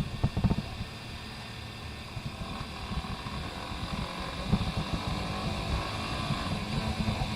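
Honda Hornet 160R's single-cylinder engine running at a steady cruising speed while riding, with low gusty wind buffeting on the microphone, heaviest in the first second.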